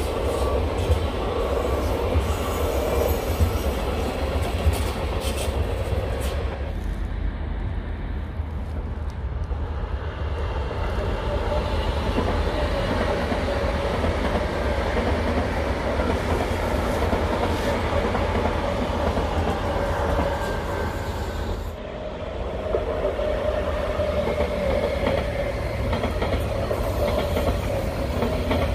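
Passenger trains passing close by, their steel wheels running on the rails with a steady rolling noise and a low rumble. There are repeated wheel clicks over the rail joints in the first few seconds. The sound changes abruptly about a quarter of the way in and again about three-quarters through, as one passing train gives way to another, the middle one a high-speed train.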